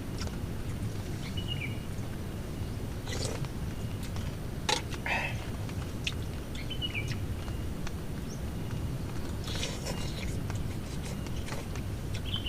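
Steady low rumble of wind and rain. A short falling chirp, typical of a bird, comes three times, with a few sharp clicks between.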